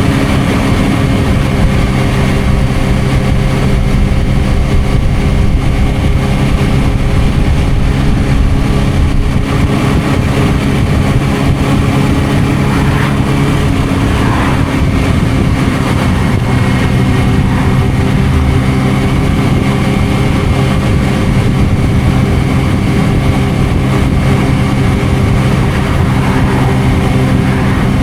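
Suzuki GSR600's inline-four running through a Dominator aftermarket exhaust while riding at fairly steady revs. The engine note eases off briefly about halfway through, then picks up again.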